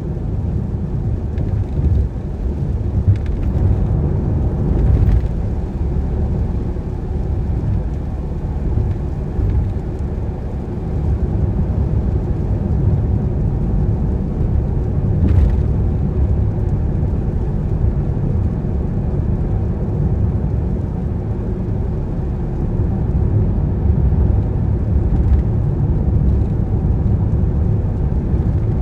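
Car driving on wet roads in the rain: a steady low rumble of engine and tyres, with a few faint clicks.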